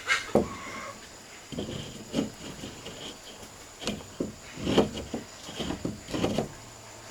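A series of irregular knocks and short thuds, some single and some in quick clusters, with no steady rhythm.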